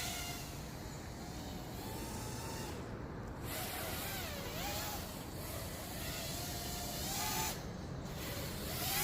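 Micro quadcopter's motors whining in flight, the pitch wavering up and down as the throttle changes, with a couple of brief dips.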